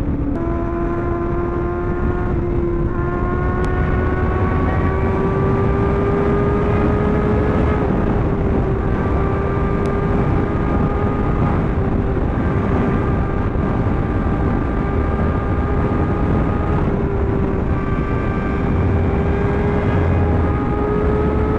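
Sport bike engine pulling at a steady high cruise, its note stepping up slightly just after the start and then holding with only a slow gentle drift in pitch, over low wind rumble.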